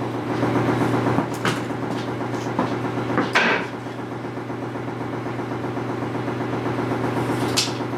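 A few sharp knocks and clatters of wooden frame pieces being handled and fitted together, the loudest a little over three seconds in, over a steady low hum.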